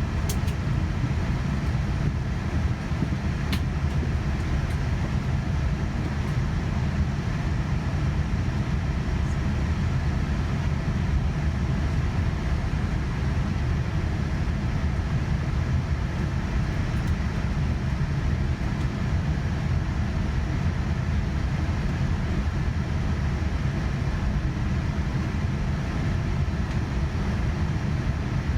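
Cabin noise of a Boeing 787-9 on the ground before takeoff: a steady low rumble from the aircraft moving along the taxiway with its engines at idle.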